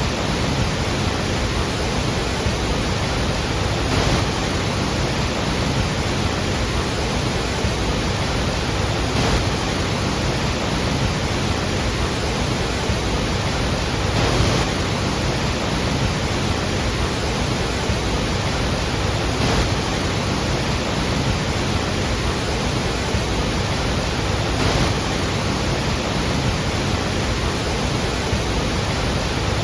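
Steady, loud roar of the Iguazu waterfalls: a massive volume of falling water pounding down, an unbroken rushing noise with faint brief swells about every five seconds.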